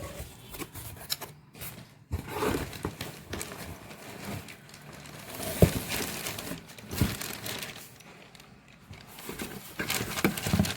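Packaging crinkling and rustling as it is handled during an unboxing, with a few sharp knocks, the loudest about five and a half seconds in.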